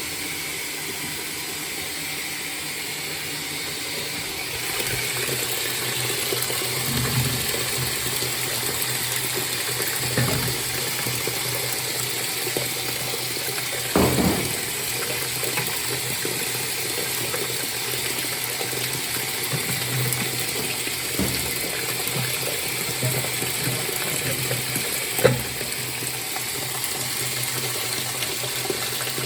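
2007 Frigidaire washing machine filling its tub with water: a steady rush of incoming water over a low hum, growing a little louder about five seconds in. A few short knocks come through it, the loudest about halfway through and near the end.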